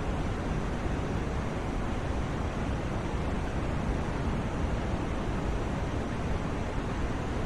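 Steady, unchanging white noise for sleep: an even rushing hiss, fuller in the low end than in the highs.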